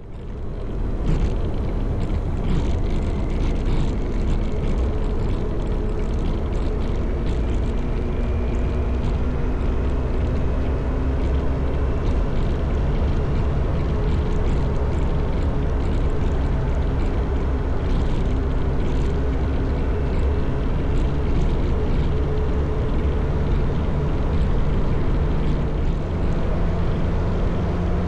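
Motorcycle riding at steady speed: engine running under load with a low rumble, mixed with wind and road noise. The sound rises in about the first second, then holds steady.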